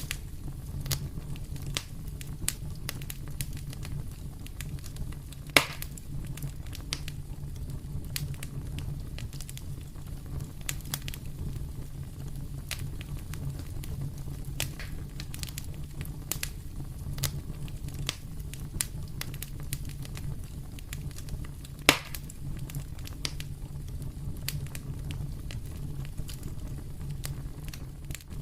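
Wood fire in a fireplace crackling steadily: many small snaps and pops over a steady low rumble, with two louder pops, one about five seconds in and one about three-quarters of the way through.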